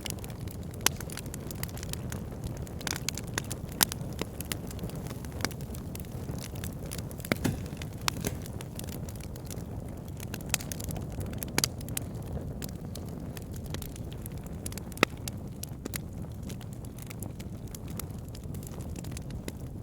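Wood fire burning in a fireplace: a steady low rumble of flame with frequent sharp crackles and pops, a few louder snaps among them.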